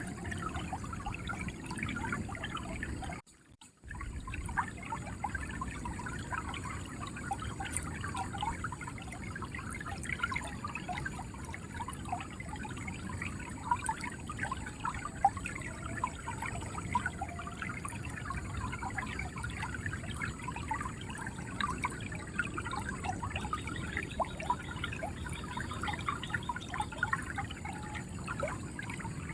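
River water flowing and gurgling steadily, with many small splashes, broken by a brief gap of near silence about three seconds in.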